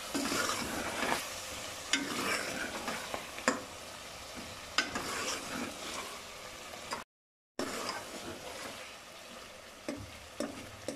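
Chicken and spice masala sizzling as it is fried (the bhuna stage), stirred with a metal spoon that scrapes and clicks against the metal pot every second or so. The sound cuts out for about half a second around seven seconds in.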